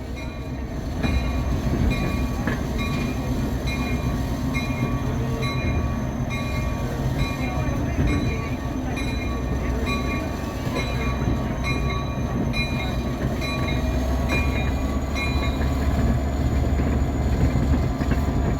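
EMD F40PHM-2 diesel locomotive running under load on a climbing grade, a steady heavy rumble heard from the open coach right behind it. Over it, a bell rings evenly about once every 0.7 s, stopping about 15 s in.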